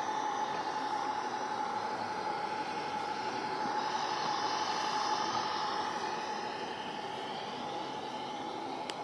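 Gauge 2 model construction train running, with a steady high squeal from its V-belts over the noise of its running.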